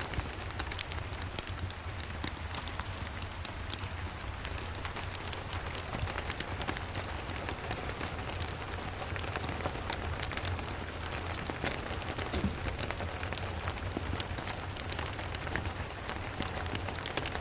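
Steady rain with a wood fire crackling, many small sharp crackles scattered throughout over a steady low rumble.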